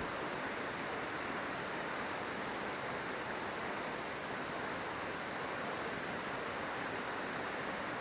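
River water rushing steadily, an even hiss with no change in level; a faint single click about halfway through.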